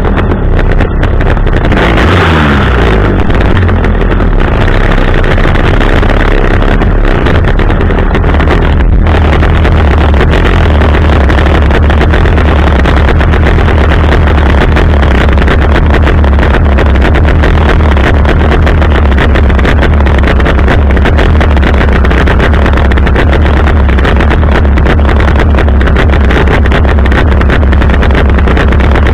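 Two-stroke chainsaw engine on a pole extension running loud and steady close to the microphone, with a brief rev about two seconds in.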